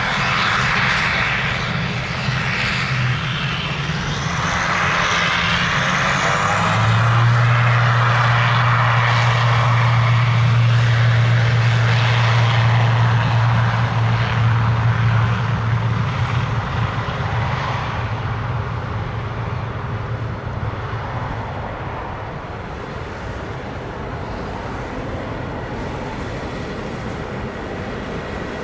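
Swiftair ATR 72-500's twin Pratt & Whitney PW127 turboprop engines running, with a steady low propeller drone and broad engine noise. It is loudest through the middle and fades over the last ten seconds.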